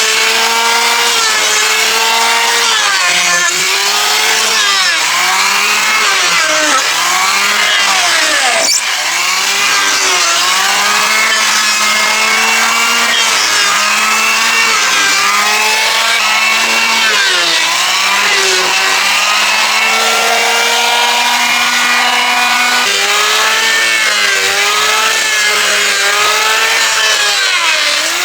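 A power tool's motor running loud and continuously while it cuts timber. Its pitch dips again and again as it bites into the wood, then rises as it frees up.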